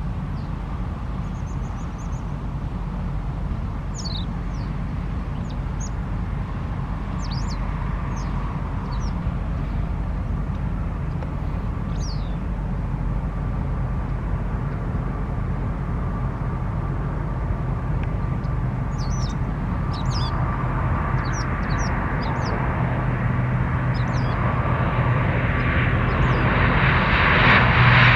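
Jet airliner engines rumbling at a distance, growing louder over the last few seconds as the noise spreads higher. Small birds chirp briefly now and then.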